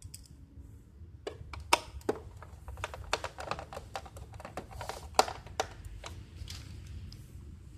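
Irregular light clicks and taps of screws, a screwdriver and the UPS casing being handled while its cover is fastened, with two sharper knocks among them.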